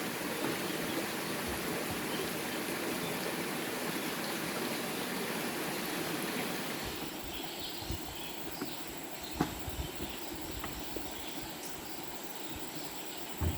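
Steady rush of running water, which gives way about seven seconds in to quieter ambience with a thin, steady high-pitched whine and a few scattered knocks. The sharpest knock comes near the end.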